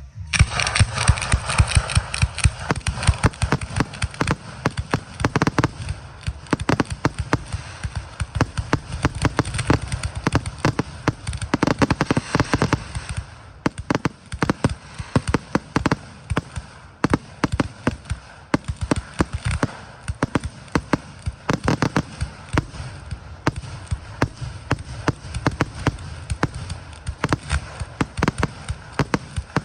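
Fireworks going off in a rapid, dense barrage: many sharp bangs and crackles a second, overlapping over a low rumble. It starts abruptly.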